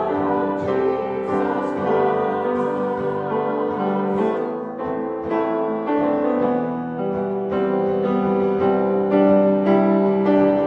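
Piano music, with notes struck and held.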